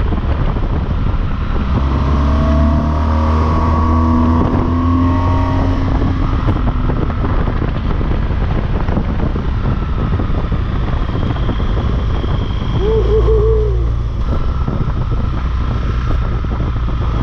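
BMW R1200GS Rallye's boxer-twin engine running under way, rising in pitch as it accelerates through the gears a couple of seconds in, over a steady rushing noise.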